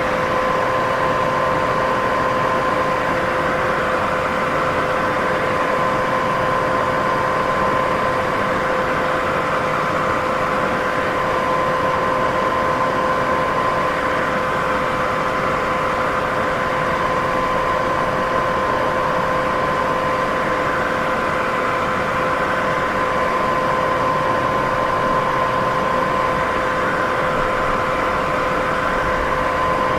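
Steady white noise for sleep: an even hiss, fullest in the middle range, with two faint steady tones running through it, one an octave above the other.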